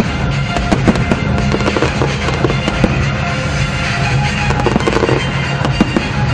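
Aerial fireworks bursting: a rapid, dense run of bangs and crackles with music playing underneath.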